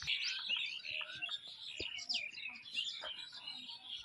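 Many birds chirping at once, a dense chatter of short overlapping calls that rise and fall, with a few faint clicks.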